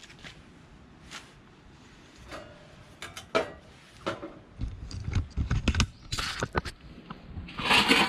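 Stainless steel plates of a homemade knock-down fire pit being handled: a few light clicks, then about three seconds in a busy run of metal clinks, knocks and clatter that is loudest near the end.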